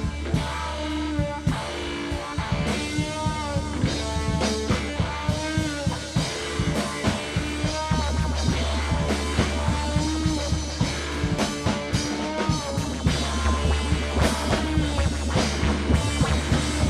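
Live rock band playing an instrumental passage: a drum kit keeping a busy beat, with guitar and a steady bass underneath.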